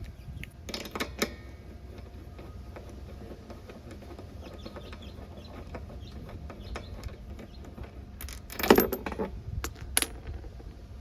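Small metal parts and hand tools clicking and clinking, with a few sharp clicks about a second in and a louder rattling clatter near the end.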